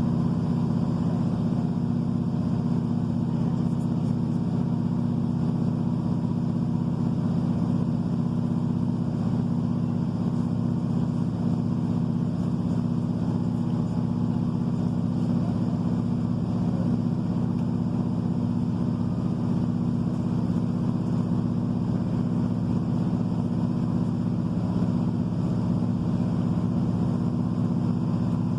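British Rail Class 153 diesel railcar heard from inside the carriage, its underfloor Cummins diesel engine giving a steady drone over rumbling running noise as the train travels along.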